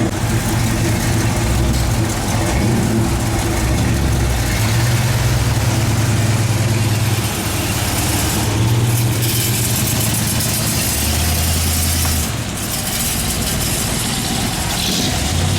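Car engines idling, a low steady hum whose pitch shifts every few seconds, with a stretch of hiss partway through.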